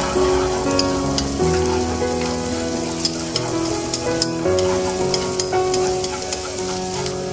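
Hot oil sizzling as chopped aromatics, red chili and green onion fry in a nonstick wok. Wooden chopsticks stir through them with scattered sharp ticks.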